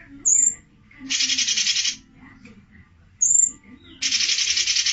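Songbird calls from a bird-song training recording: two dense, fast chattering trills about a second long each, with a short thin high whistle before each.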